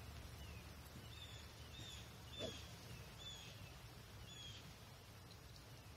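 A bird calling faintly and repeatedly: short, high, down-slurred notes about once a second that stop about two-thirds of the way through, over a low outdoor rumble. A brief louder sound comes about halfway.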